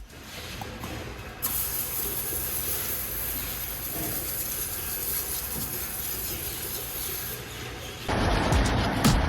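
Spray hissing steadily during a car wash, starting about a second and a half in and easing off about two seconds before the end.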